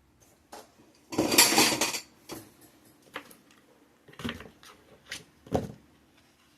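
Metal greenhouse frame tubes and parts clattering as they are handled and searched through: a loud rattle about a second in, then several separate knocks.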